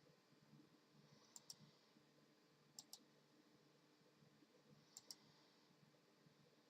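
Faint double clicks over near silence: three pairs of short, sharp clicks, about a second and a half to two seconds apart.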